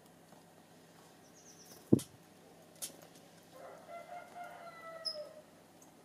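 A sharp knock about two seconds in, then a drawn-out bird call lasting nearly two seconds that falls in pitch at its end, with a couple of faint high chirps.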